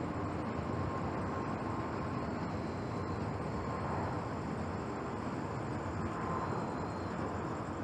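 Steady jet engine noise from a Boeing 737 MAX 8's CFM LEAP-1B turbofans, an even rush with a faint tone coming and going.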